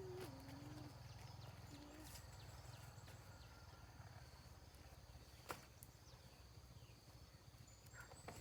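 Near silence: a faint low hum, a faint wavering tone that fades out in the first two seconds, and one sharp click about five and a half seconds in.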